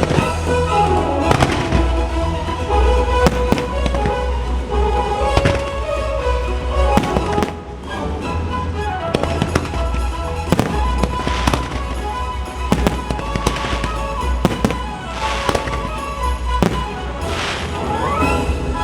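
Fireworks bursting, sharp bangs every second or two, some in quick clusters, over the fireworks show's music playing loudly.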